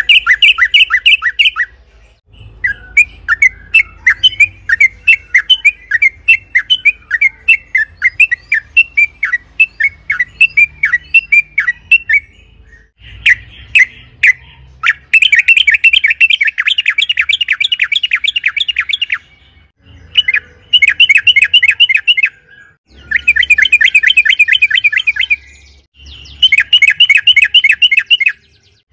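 Yellow-vented bulbul (trucukan) singing. For about twelve seconds it gives a run of quick, bubbly, falling notes. Then come several rapid chattering bursts, each two to four seconds long with short breaks between, the longest lasting about four seconds.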